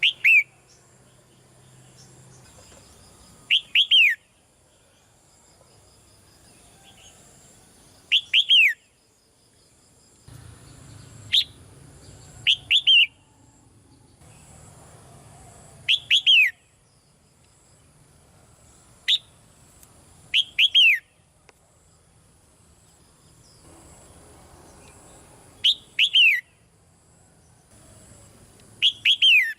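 Red-whiskered bulbul calling: short clusters of two or three quick falling notes, repeated about every four seconds.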